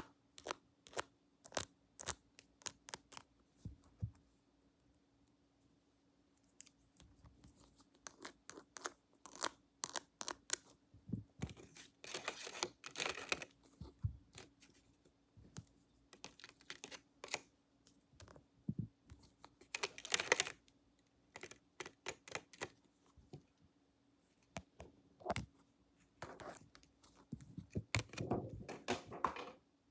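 Close-miked ASMR handling sounds: irregular light clicks and taps with a few short rustling, crinkling passes, over a faint steady hum.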